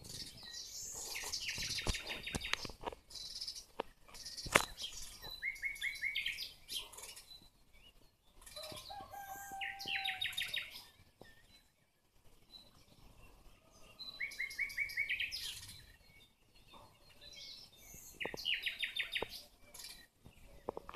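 Songbirds singing: short, fast trilled phrases repeated every few seconds, with higher chirps between them and a lower whistled note about ten seconds in. A few sharp clicks are heard, the loudest about four and a half seconds in.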